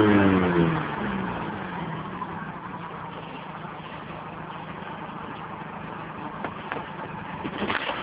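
Stock Mini Cooper S engine and exhaust falling back in pitch from a rev over the first second, then settling to a quieter steady idle. A few light knocks near the end.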